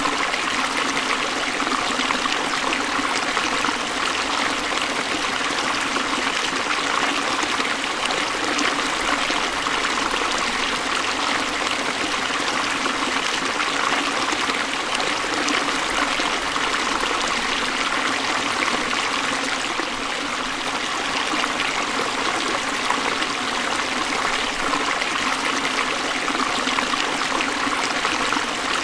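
A forest stream flowing steadily over rocks, a continuous even rush of water.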